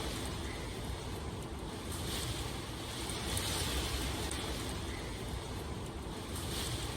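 Continuous rain ambience: an even hiss of rainfall over a low rumble, swelling and easing every two to three seconds.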